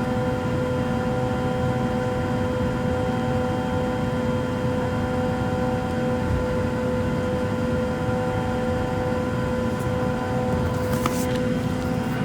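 Steady drone inside an airliner cabin, with several steady hums over the noise, from the engines and air-conditioning system. A brief click about eleven seconds in.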